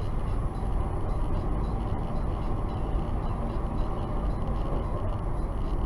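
Steady low rumble of a car's engine and tyres on the road, heard from inside the cabin by a dashcam while driving.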